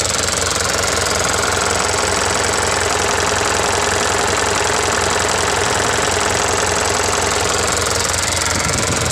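Mitsubishi 4M51 four-cylinder diesel engine turning over steadily with an even, rapid rhythm.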